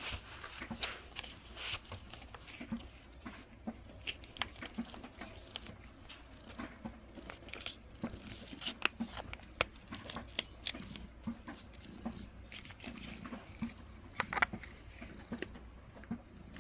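Cats eating dry food: irregular crisp crunches and clicks of kibble being chewed.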